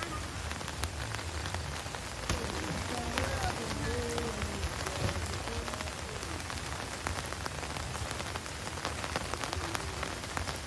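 Heavy rain falling steadily on a car's roof, with many sharp drop ticks over an even hiss.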